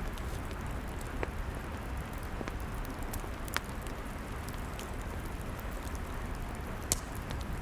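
Log fire crackling: a steady low rumble with scattered sharp pops and snaps, the loudest near the end.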